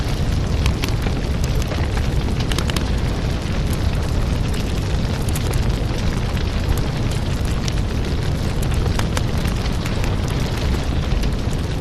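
Burning firewood: a steady low rumble of flame with frequent sharp crackles and pops of the wood.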